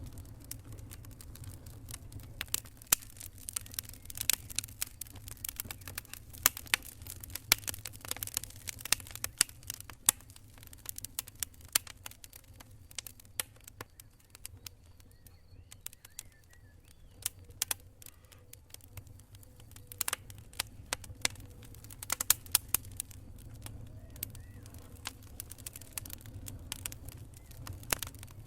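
Wood campfire crackling: irregular sharp pops and snaps of burning wood over a steady low rumble, the pops thinning out for a few seconds about halfway through.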